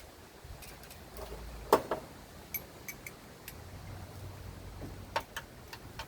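Scattered clicks and clinks of metal hand tools being handled, a few with a brief metallic ring, with one sharper knock a little under two seconds in.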